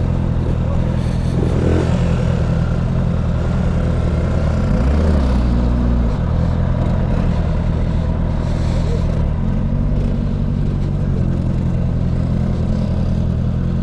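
Honda CB650 inline-four motorcycle engine running as it is ridden, a steady low engine note with a brief rev up and back down about five seconds in.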